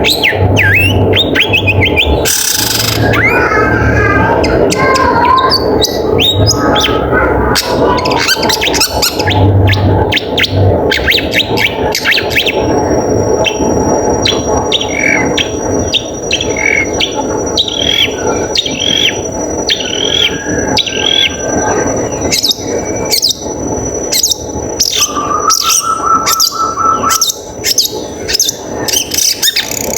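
Long-tailed shrike (cendet) singing a rapid, busy jumble of short chirps and squeaky notes over a steady background hiss. A thin, steady high-pitched tone joins about twelve seconds in and runs under the song.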